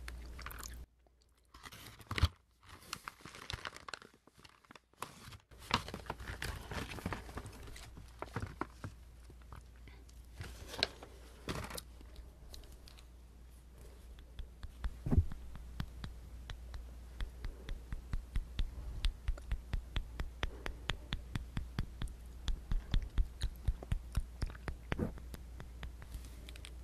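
Close-miked chewing and crunching of a dessert, with sharp mouth clicks. The first part is irregular, with short pauses. Later the eating settles into a quick, even chewing rhythm.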